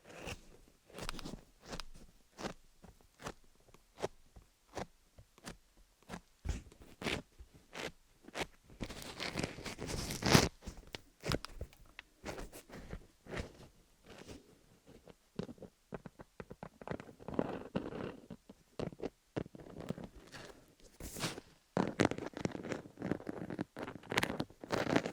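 Fingernails tapping and scratching on a rhinestone-studded dummy-head microphone: irregular crisp clicks with scratchy stretches, busiest about nine to ten seconds in and again near the end.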